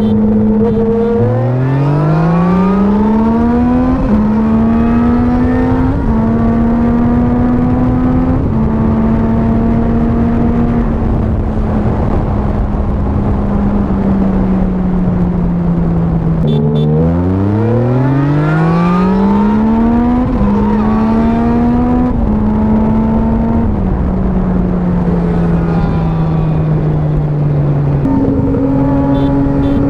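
Motorcycle with an aftermarket performance exhaust pulling hard through the gears twice, the engine note climbing steeply and dropping back at each upshift, with stretches of steady cruising and easing off between the pulls.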